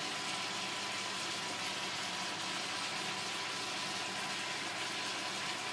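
Chicken, carrot and burdock root sizzling steadily in oil in a frying pan as they are stir-fried.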